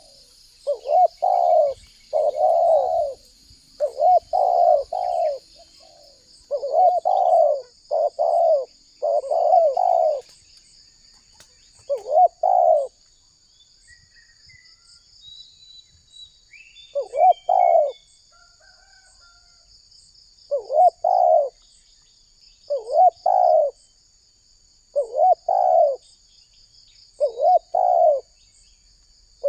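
A spotted dove cooing repeatedly in short rhythmic phrases, with a pause of a few seconds about halfway. A faint steady high trill and a few small bird chirps sit behind it.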